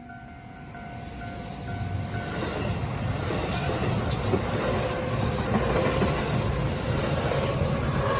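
Level-crossing alarm bell ringing in a steady two-tone pulse for the first couple of seconds. Then an electric train comes through the crossing, its rumble building to a loud passing roar, with high-pitched wheel squeal over it.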